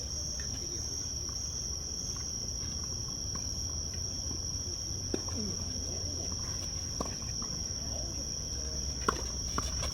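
Steady high-pitched insect chorus of crickets or cicadas, with a few sharp tennis-ball strikes about two seconds apart in the second half.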